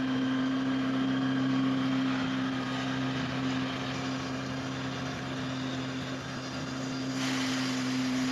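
Steady machine drone: a held low hum over an even hiss, the hiss growing brighter about seven seconds in.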